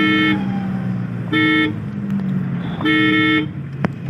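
Car horn honking three times: a blast that ends just after the start, a short toot about a second and a half in, and another blast about three seconds in. Under the honks runs the steady low drone of a car engine and road noise.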